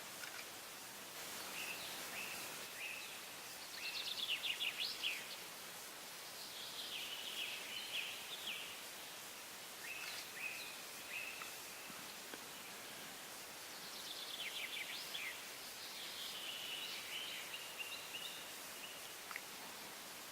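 A small bird singing short phrases of fast, high trills, repeated every few seconds, over a steady outdoor hiss.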